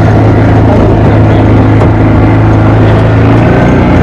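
Motorboat engine running steadily at cruising speed, with a constant low drone and water noise, changing slightly in pitch near the end.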